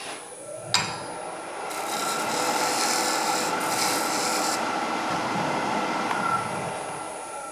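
Wood lathe running while a turning tool cuts the spinning wooden jam chuck, a rasping cut that starts just after a sharp click, builds, holds for several seconds and fades near the end.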